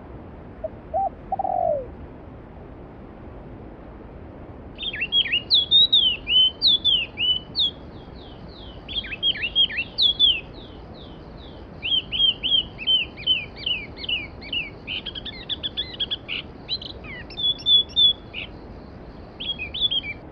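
A songbird singing phrases of quick, high chirping notes that sweep downward, starting about five seconds in, over the steady rush of a flowing mountain stream. A short, low call sounds once just after the start.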